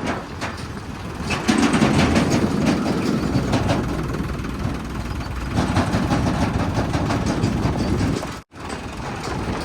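Heavy diesel engine of a backhoe loader, tractor or truck running under load. It grows louder about a second and a half in and again near six seconds, then breaks off abruptly for a moment near the end.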